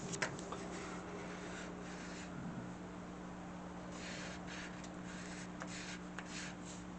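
Pen strokes scratching on paper, in short spurts that bunch up between about four and six and a half seconds in, over a steady low electrical hum. A single sharp click comes just after the start.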